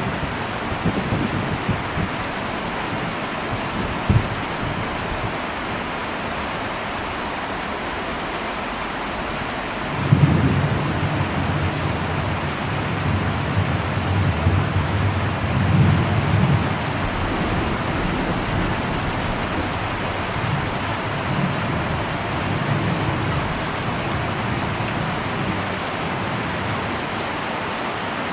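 Heavy rain drumming steadily on an old metal roof, a constant hiss. About a third of the way in, thunder breaks in suddenly as a low rumble that rolls on for several seconds and slowly dies away under the rain.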